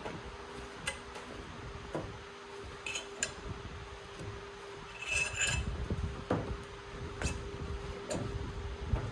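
Metal tools and parts being handled: scattered clinks and knocks, with a cluster of ringing clinks about five seconds in, over a steady hum.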